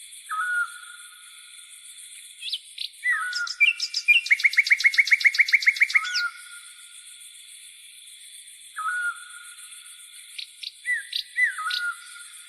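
Songbirds calling with short whistled notes, one breaking into a fast trill of about a dozen notes a few seconds in, over a steady high-pitched buzz of grasshoppers.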